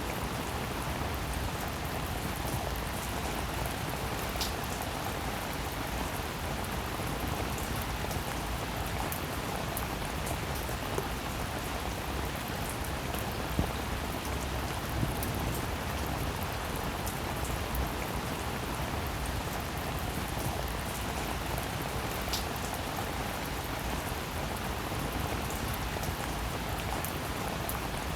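Steady rain falling: an even hiss of rain with a few louder single drops standing out now and then.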